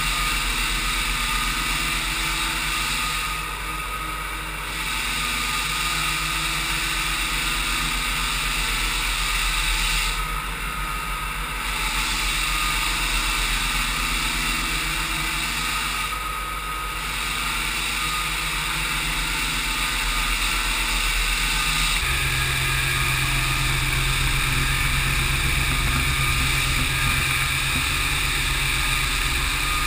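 Floor sander with an on-board vacuum running steadily. The machine's note shifts and settles lower about two-thirds of the way through.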